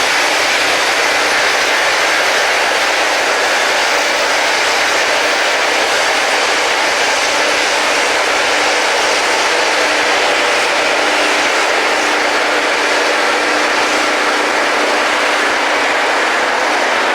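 Rail grinding machine grinding the railhead: a loud, steady hissing grind that does not change.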